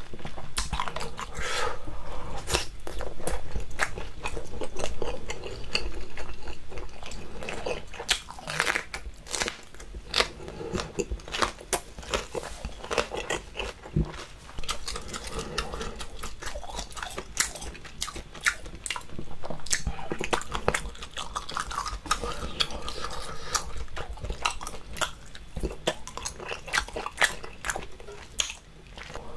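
Close-miked chewing of a bitten-off piece of crisp fresh green chili pepper: wet mouth clicks and crunches, denser and louder in the first third.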